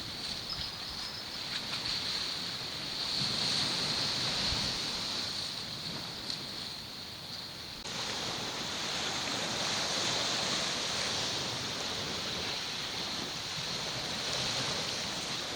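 Sea surf washing against the shore, with wind buffeting the microphone and a steady high-pitched hiss running underneath. The sound changes abruptly about halfway through.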